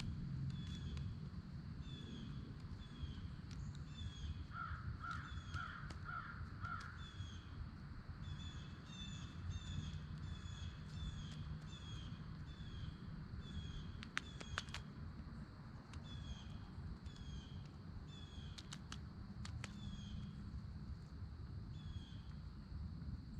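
Wild birds calling outdoors: short, high, down-slurred chirps repeated about once or twice a second, with a run of about six lower, harsher calls in quick succession a few seconds in, over a steady low background rumble. A few sharp clicks come about two-thirds of the way through.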